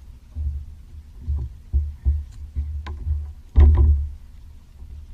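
Irregular low thumps and knocks against a kayak hull, some with a sharp click on top, the heaviest about three and a half seconds in, as a hooked fish is brought in and landed.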